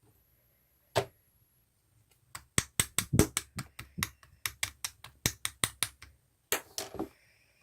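Homemade slime being pressed and poked, giving a run of sharp popping clicks, about four a second, after a single click about a second in.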